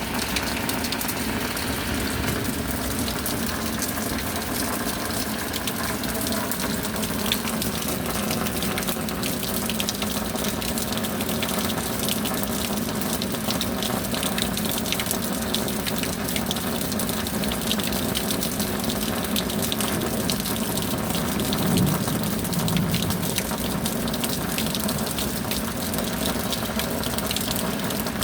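Steady heavy rain: a constant rushing hiss scattered with many sharp drop ticks, with a brief swell in the low rumble a little after twenty seconds.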